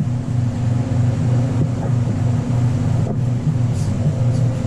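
A steady low mechanical drone of a running motor, with a faint click about three seconds in and short faint hisses near the end.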